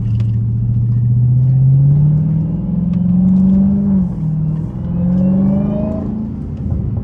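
Straight-piped Dodge Hellcat Redeye's supercharged 6.2-litre Hemi V8 accelerating, heard from inside the car: the engine note climbs, drops with an upshift about four seconds in, then climbs again and levels off.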